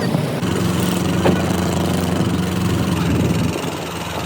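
Boat engine running steadily at idle, a low even hum.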